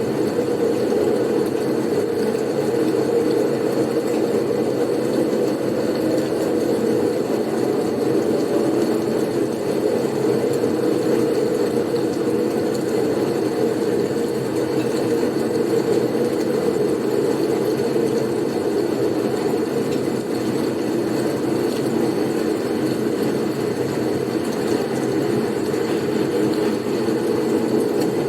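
Steady blizzard wind noise, low and even, with no gusts or breaks.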